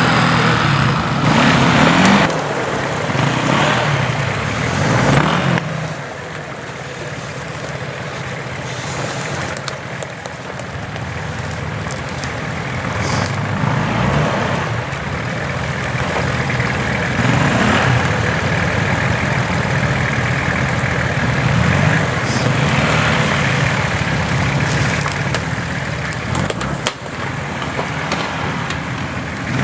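Off-road 4x4 vehicle's engine running under load while driving over rough terrain, louder for the first few seconds, easing off, then building again.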